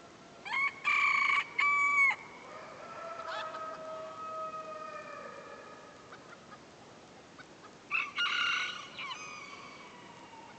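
Roosters crowing: a loud crow starts about half a second in and lasts about a second and a half, a fainter drawn-out crow from another bird follows, and a second loud crow comes about eight seconds in.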